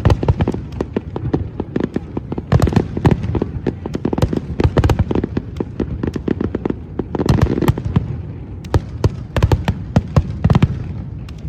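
Fireworks bursting in quick succession: many sharp bangs and crackles over deeper booms, thinning out near the end.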